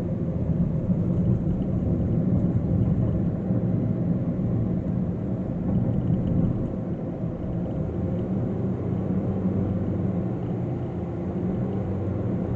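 Steady low rumble of a car driving along a highway, with tyre and engine noise as heard from inside the cabin.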